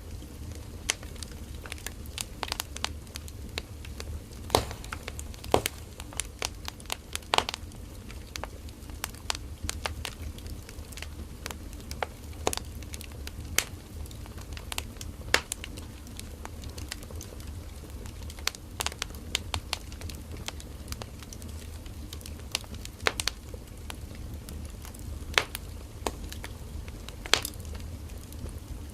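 Firewood burning in a campfire, crackling and popping irregularly, several snaps a second with a few louder pops, over a steady low rumble of the flames.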